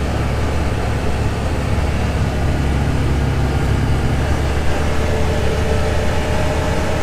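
CFMoto UForce 1000 side-by-side's engine and CVT running steadily as it drives along, its pitch rising a little near the end, with an MSC Stage 1 clutch kit just fitted.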